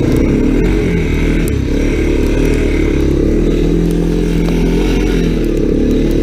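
Honda ATC 250SX three-wheeler's single-cylinder four-stroke engine running under throttle while riding, its pitch rising and falling with the throttle.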